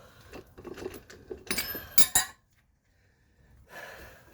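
Metal parts clinking and clanking as they are handled, with two sharp ringing metal knocks about two seconds in: a freed suspension bolt with a socket jammed on its end.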